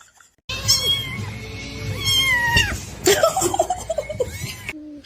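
A cat meowing several times in high calls that fall in pitch, the later calls lower and choppier.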